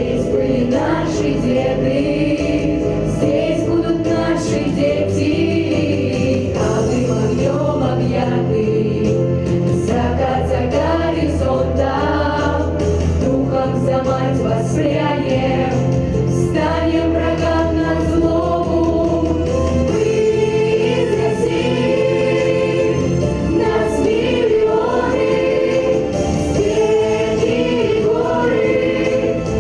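Children's vocal ensemble singing a Russian wartime song in chorus over an instrumental accompaniment with a steady bass and beat.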